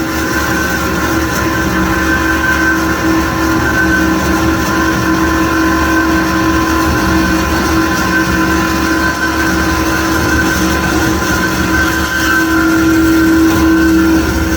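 HydMech V-18 vertical mitering bandsaw running: a loud, steady machine hum with several steady whining tones, growing slightly louder near the end.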